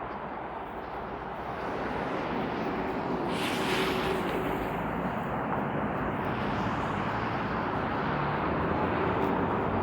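Urban road traffic: vehicles running and passing, a steady rumble with a brief rushing hiss about three and a half seconds in.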